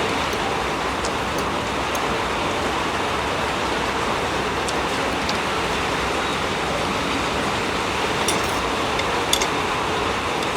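Heavy storm rain pouring down in a steady, even hiss, with a couple of small ticks near the end.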